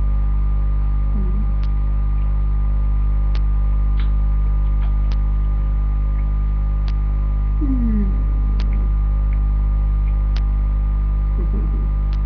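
Loud, steady electrical mains hum, with a soft click repeating about every second and a half to two seconds. A few faint, brief sliding sounds come about a second in, near the middle and near the end.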